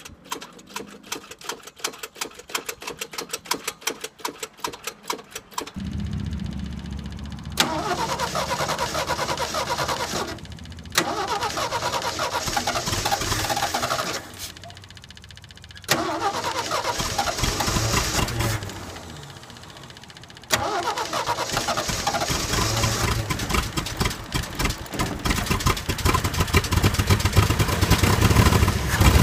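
1976 AMC Pacer straight-six being cranked by the starter for about six seconds, then catching and running, its revs rising and dropping back several times. The freshly cleaned carburetor is now working, and the engine runs without its exhaust fitted; the owner says it still needs plugs, wires and the exhaust put on.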